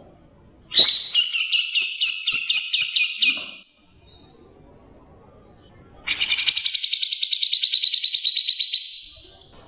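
White-rumped shama (murai batu) singing in two trilled phrases: a rattling trill about a second in, lasting under three seconds, then after a pause a long, fast, even trill that fades out near the end.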